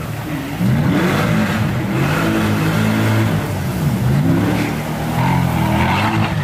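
2024 Corvette E-Ray's V8 revving up and down again and again as the car drifts on snow, with the hiss of spinning tyres throwing up snow.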